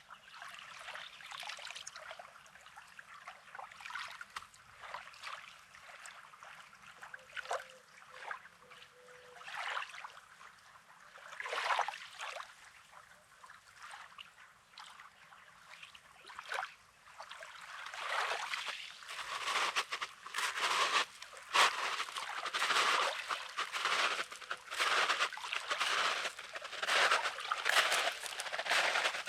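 Small sea waves lapping and washing over the pebbly shore, with a trickling, crackling wash of water among the stones that grows louder and busier about two-thirds of the way in.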